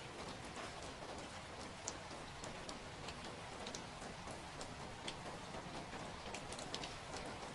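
Steady rain hiss with sharp, irregular drops tapping on a hard surface.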